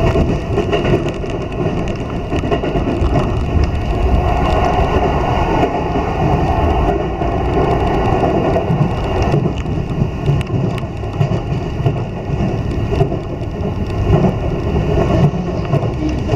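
Keiyo Line electric train running at speed, heard from inside the passenger car: a steady, loud running rumble of wheels on the track.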